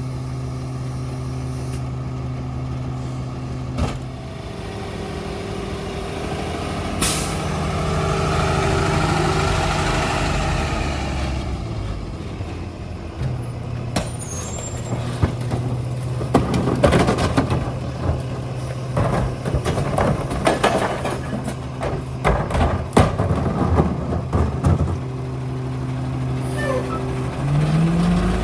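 Ford F-750 rear-loader garbage truck's diesel engine running steadily, with a sharp air-brake hiss about a quarter of the way in. A swelling mechanical whine follows for several seconds, then a long run of clanks and bangs, and near the end the engine revs rise.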